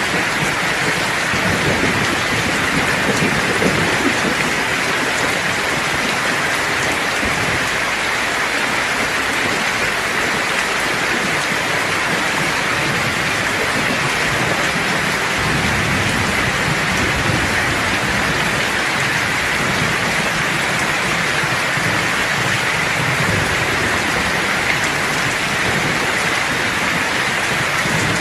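Steady, heavy rain falling without a break, with low rumbles of thunder rolling in at times.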